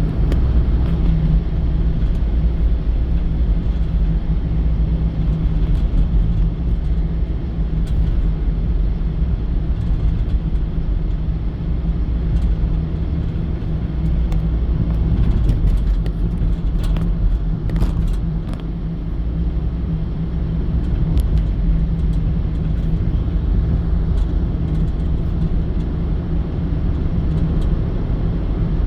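A car driving: a steady low engine and road rumble with a constant hum, plus a few light ticks and knocks about halfway through.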